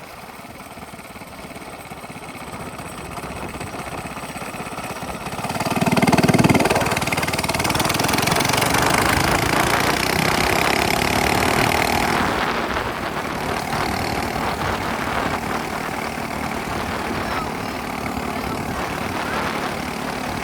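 Minibike engine with a straight-pipe exhaust running, growing louder over the first several seconds, loudest for a stretch about six to twelve seconds in, then easing back somewhat.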